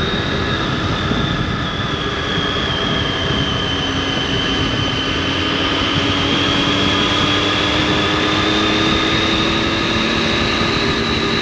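Triumph Tiger 800's three-cylinder engine and exhaust running steadily on the move, the pitch easing down a little a few seconds in and climbing back toward the end.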